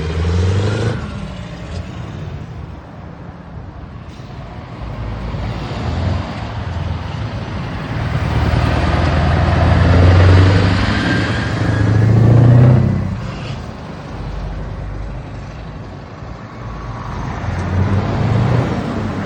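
Heavy trucks' diesel engines rumbling as they pull away and drive past, swelling loudest about eight to thirteen seconds in, with a faint rising whine in the middle.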